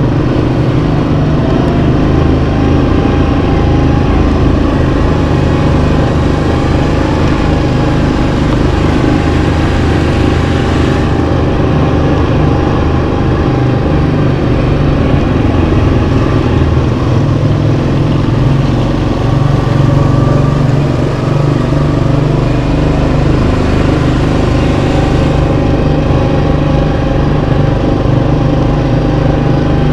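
Yamaha Kodiak 700 ATV's single-cylinder four-stroke engine running steadily under way, its note rising and falling a little with the throttle.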